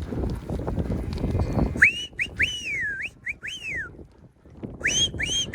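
Low rumbling movement noise, then from about two seconds in a person whistling a string of short, sharp notes, each rising and then gliding down, in two groups. These are herding whistles used to work a stock dog and cattle.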